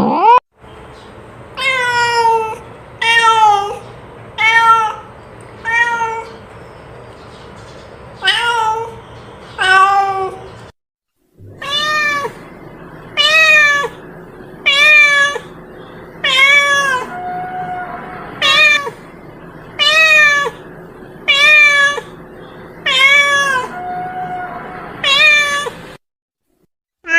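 Domestic cat meowing over and over, about one call a second, each a short rising-then-falling meow. The calls stop briefly twice where the recording cuts to silence.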